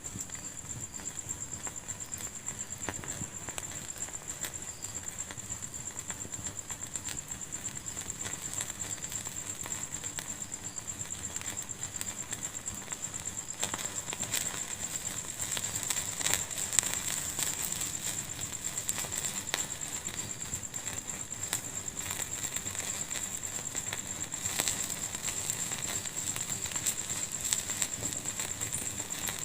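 Wood fire crackling in a fireplace, a stream of small pops and snaps over a steady high hiss. The pops grow thicker and louder from about halfway through.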